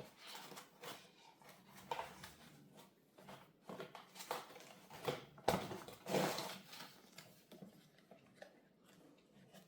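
Small parts being lifted out of foam packaging by hand: irregular rustling with light clicks and taps, the loudest rustles about five to six seconds in.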